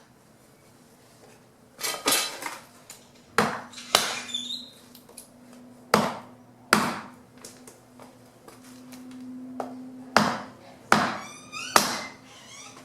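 Fallen branches being chopped into wood chips with a hand tool: about nine sharp chops at uneven intervals, some coming in quick pairs.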